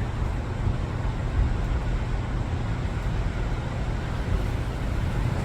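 Wind blowing across the microphone: a steady low rumble with a rushing noise above it, rising and falling unevenly in the tropical-storm gusts.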